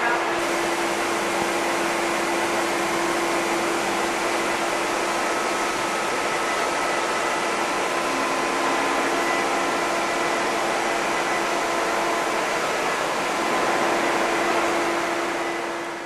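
Steady, even rushing noise from air-moving machinery, with a constant hum and faint whine held throughout.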